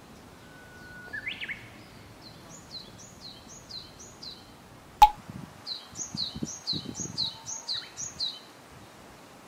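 Songbirds singing in the trees: a long whistle that rises sharply at its end, then two runs of quick, high, down-slurred notes repeated two to three times a second. A single sharp click about halfway through is the loudest moment, with a few low thumps after it.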